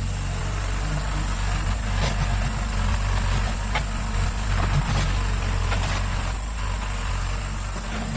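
Excavator engine running steadily with a low hum, with a few light knocks.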